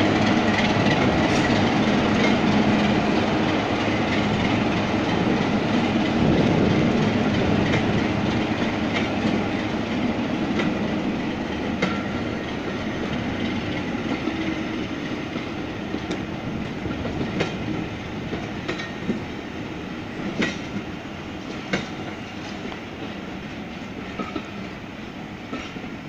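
Passenger coaches of a diesel-hauled train rolling slowly past, wheels clicking over rail joints. The rumble gradually fades as the train draws away, and the separate wheel clicks stand out more clearly near the end.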